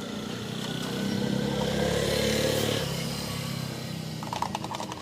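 A motorcycle engine running, growing louder for a couple of seconds and then fading again.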